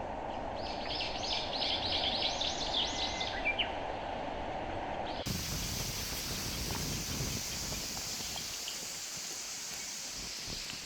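A songbird singing a quick series of about ten repeated notes over a steady outdoor hiss. About five seconds in, the sound cuts to a broader, even rushing hiss of wind or moving water.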